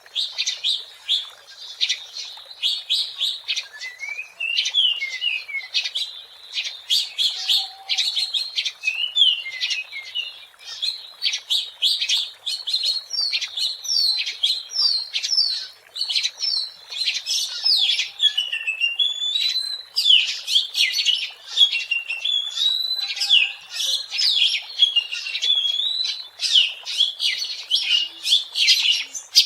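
Oriental magpie-robin singing without a break: quick chattering notes mixed with whistled phrases that slide up and down.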